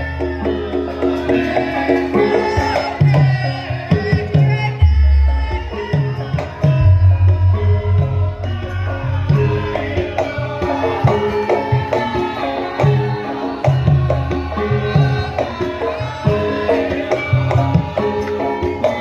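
Javanese gamelan music for lengger dance, with the kendang hand drum beating out a busy rhythm over ringing pitched metal instruments and deep gong notes.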